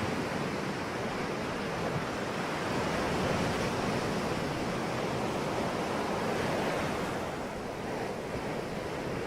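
Sea waves washing on a shore: a continuous rush of surf that swells in the middle and eases off near the end.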